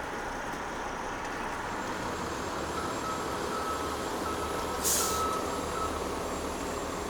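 Street traffic with a heavy vehicle's engine rumbling, and a reverse-warning beeper sounding about two short beeps a second for about three seconds. A brief hiss of air brakes comes in the middle of the beeping.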